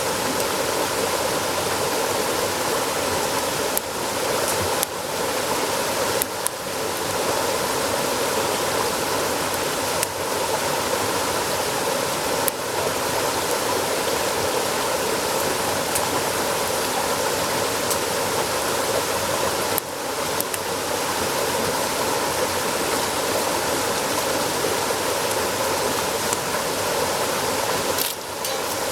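Steady rushing of flowing water, with a few sharp pops scattered through.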